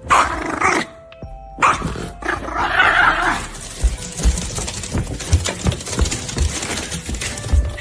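A dog vocalizing in three loud bursts over the first three and a half seconds, with music running underneath.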